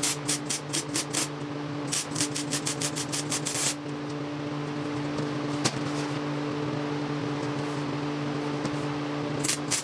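Aerosol spray can let off in quick short bursts, about five hisses a second, in three runs, over a steady motor hum.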